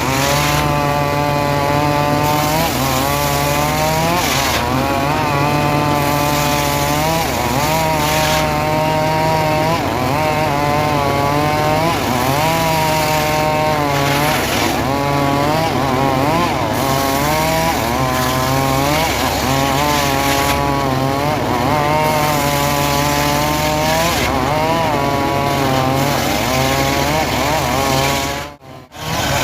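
Homemade engine-driven sawmill running steadily while cutting through a sengon log. Its pitch wavers up and down as the blade works under load. The sound drops out briefly about a second before the end.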